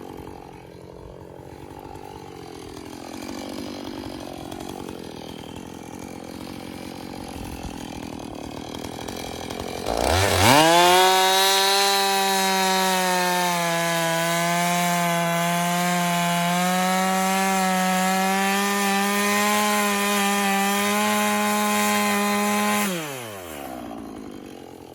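Two-stroke chainsaw running low for about ten seconds, then snapped up to full throttle. It stays at high revs, sagging slightly under load as it cuts into a hardwood log, until the throttle is let off near the end and the revs fall away.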